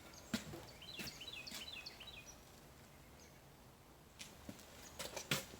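Faint outdoor ambience with a small bird giving a quick run of short chirps about a second in. A few sharp clicks or taps come near the start and again near the end, louder than the bird.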